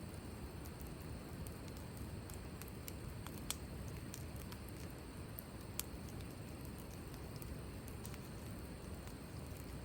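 Wood campfire burning with a low steady rumble and sparse sharp crackles, two louder pops about three and a half and six seconds in.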